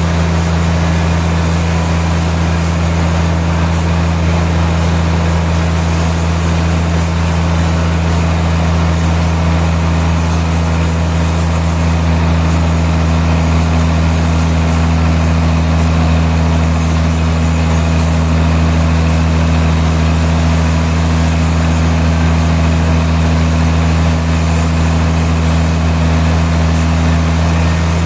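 Sawmill machinery running steadily with a deep, unchanging hum and no change in load.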